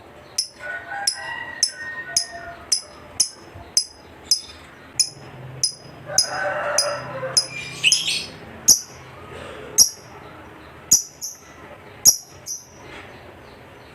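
Lovebird calling: a regular series of short, sharp, high chirps that fall in pitch, about two a second, spacing out toward the end, with a stretch of busier, lower chatter in the middle.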